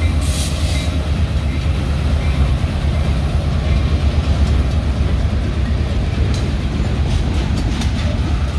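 Freight train passing close by: the diesel locomotive's steady low engine rumble as it goes past, then hopper cars rolling by, with a run of sharp wheel clicks near the end.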